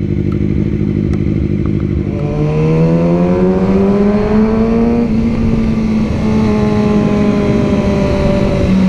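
Motorcycle engine running under way. Its pitch rises steadily for about three seconds starting two seconds in, then holds roughly level and eases off slightly near the end.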